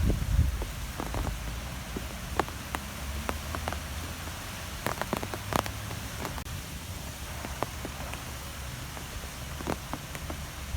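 Wind ambience: a low rumble under a light hiss, with scattered sharp ticks throughout.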